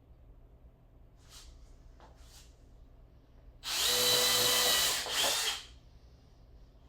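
Power drill running for about a second, then a brief second pull of the trigger. Before that come a couple of faint knocks.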